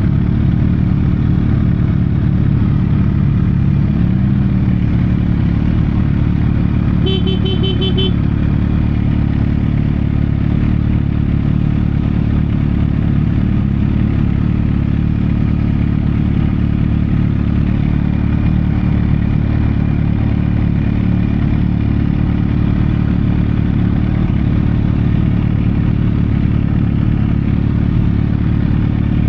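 Sportbike engine running steadily at an even pitch, with a short run of beeps about seven seconds in.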